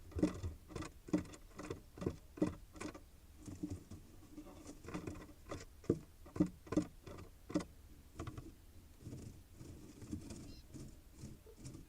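Irregular scratching, knocking and rustling inside a wooden nest box, a few strikes a second: common mynas moving about and working nest material.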